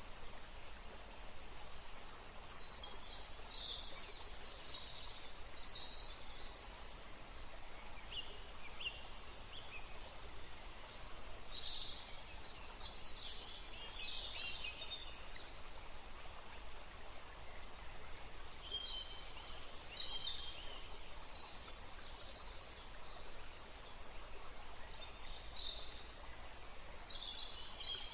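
Small birds singing in short bursts of high chirping phrases, several times, over a steady rush of flowing river water.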